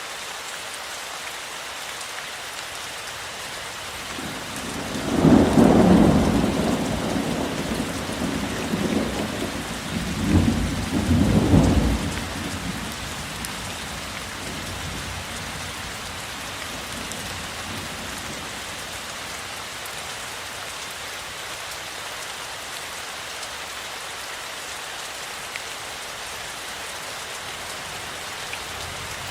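Steady rain falling, with a roll of thunder about five seconds in that swells a second time and dies away by about twelve seconds, leaving the rain alone.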